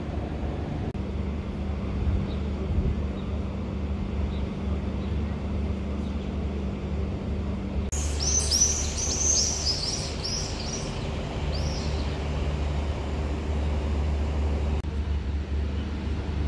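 Steady low outdoor rumble with a faint hum, its character shifting abruptly a few times. About halfway through, a bird chirps rapidly in a quick series of short, high notes for a few seconds.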